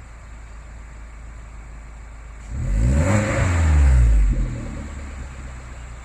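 2019 Suzuki Jimny JB74's 1.5-litre four-cylinder engine, through an aftermarket Fujitsubo exhaust, idling, then revved once about two and a half seconds in. The pitch rises and falls over about two seconds before it settles back to idle.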